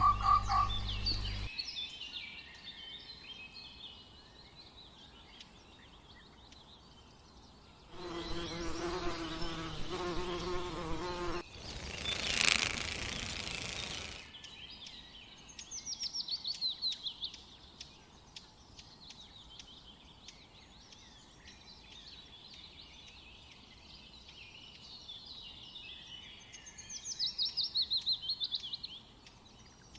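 Small birds singing in repeated high chirping trills. Midway, a few seconds of a louder, different animal sound break in.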